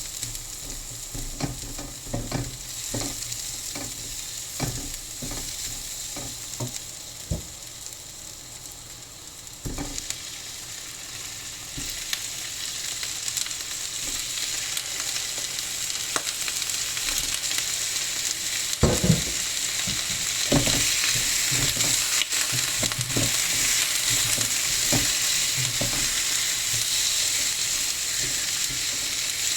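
Food sizzling as it sautés in a pot, stirred with a utensil that knocks and scrapes against the pot again and again. The sizzle grows louder about a third of the way through, and there is a louder clatter about two-thirds of the way in.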